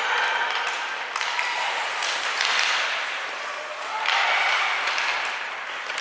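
Ice hockey arena noise: spectators cheering and calling out, swelling twice, with a few sharp clicks from the play.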